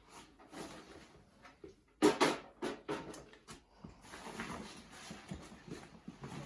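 Camping gear being handled: a quick run of sharp clanks and clicks about two seconds in, then softer rustling and shuffling.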